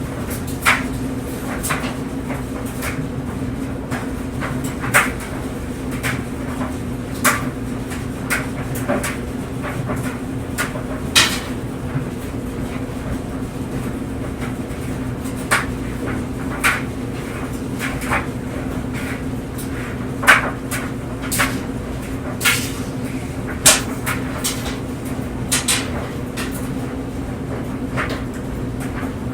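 Clothes dryer running with a load of clothes tumbling in the drum: a steady hum from the motor and drum, broken by irregular sharp knocks and clicks as the tumbling load strikes the drum.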